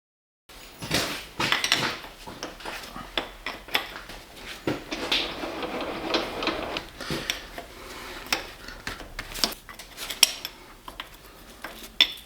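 Metal tools and workpieces being handled, with many irregular clinks and knocks of metal on metal and some scraping in the middle. No machine is running.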